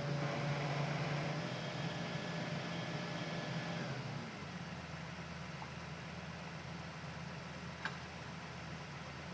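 Hitachi Zaxis excavator's diesel engine running with a thin hydraulic whine, which eases off about four seconds in as the engine settles to a lower, steady hum. A single short click near the end.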